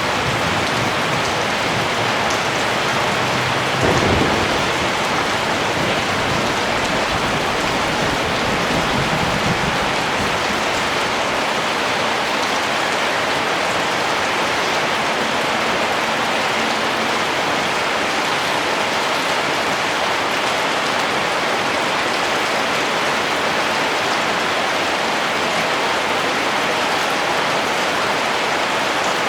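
Steady rain hissing. A thunderclap breaks in about four seconds in, and its low rumble rolls on for several seconds before fading back under the rain.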